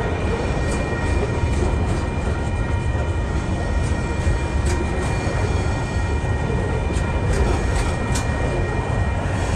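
Loaded container flat wagons of a freight train rolling past at close range: a steady heavy rumble with scattered wheel clicks. Steady high tones ring over the rumble throughout.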